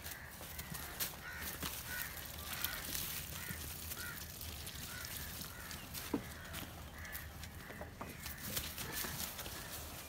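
Birds calling over and over in short calls, with scattered clicks and knocks of movement close by.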